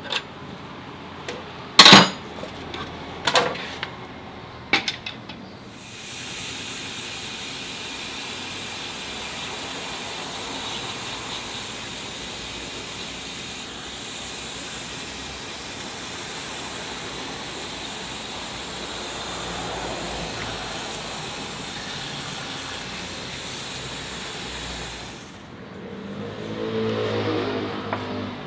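A few sharp metal knocks, then a steady hiss of air or spray that runs for about twenty seconds and cuts off suddenly, during work on a dual-clutch transmission.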